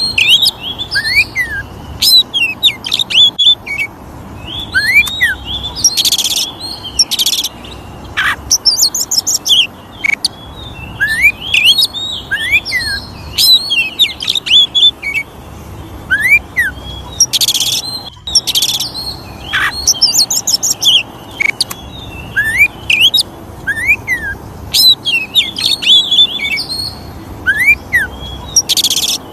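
Oriental magpie-robin (kacer) singing continuously: a varied run of short rising and falling whistles, fast high trills and a few short harsh rasping notes.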